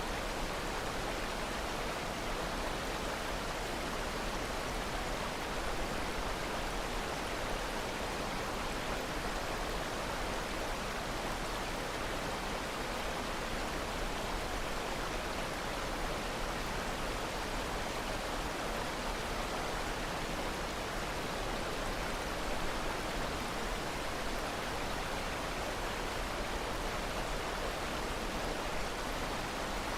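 Steady rushing of falling water, a constant even waterfall sound with no breaks or changes.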